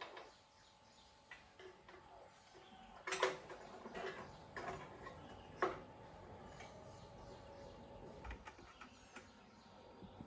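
Scattered light clicks and knocks of hard objects being handled, with sharper knocks about three seconds in and about five and a half seconds in.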